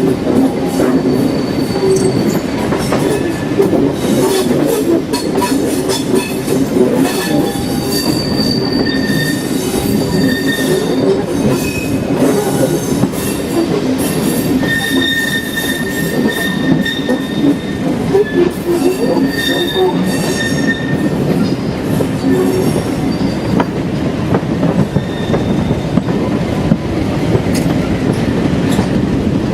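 A train running on the rails, with a continuous rumble, scattered clicks, and high wheel squeal that comes and goes several times.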